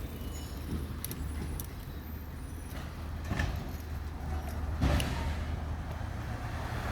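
Garbage truck engine running with a steady low hum, crossed by a few sharp clicks and knocks, the loudest about five seconds in.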